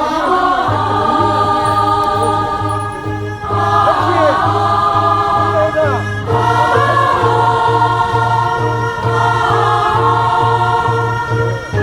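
Many voices singing a Korean funeral bier song (sangyeo-sori) in chorus, in long held phrases, over a steady low beat about twice a second.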